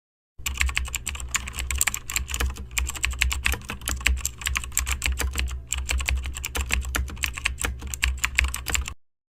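Rapid, irregular key clicks of typing on a computer keyboard over a steady low hum, starting and stopping abruptly.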